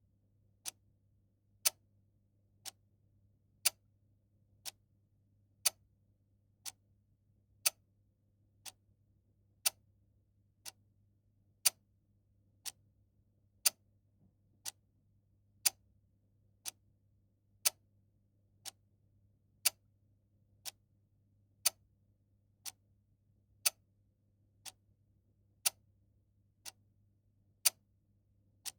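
Clock ticking steadily at about one tick a second, the ticks alternating louder and softer in a tick-tock pattern.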